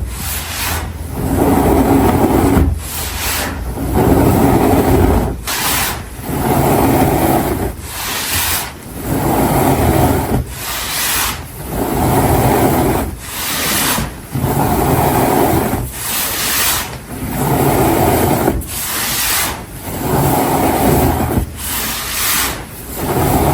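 Loose baking soda powder being squeezed and rubbed by hand, a crunchy rustle repeating about every one and a half to two seconds.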